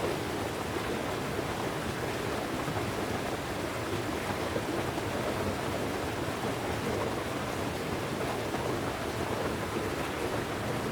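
Steady rushing water, an even noise with no breaks.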